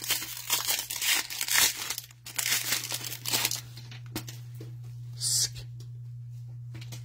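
Plastic wrapper of a trading-card pack being torn open and crinkled, busiest in the first half and then a few scattered crackles, over a steady low electrical hum.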